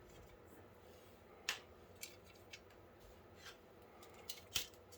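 Scattered light clicks and taps of small parts being handled, about six in all, the loudest about a second and a half in and another near the end.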